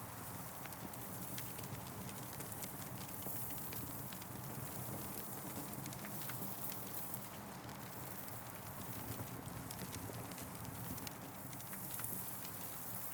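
Wood campfire burning, crackling with frequent irregular pops and snaps over a steady hiss and a low rumble.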